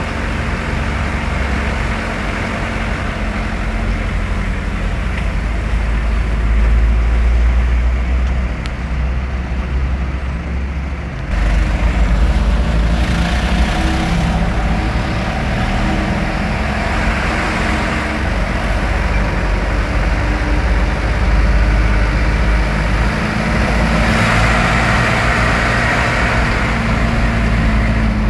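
Road vehicle running, a steady low rumble with road noise. The sound jumps suddenly louder and changes about eleven seconds in.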